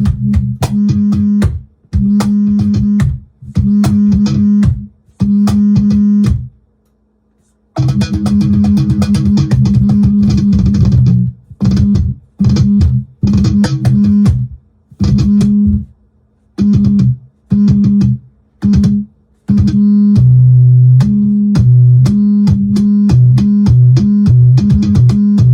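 Electric bass played through a Digitech BP355 bass multi-effects pedal on a feedback preset: held droning notes cut on and off in a choppy rhythm with sharp attacks. About twenty seconds in, a lower note joins and pulses under the drone.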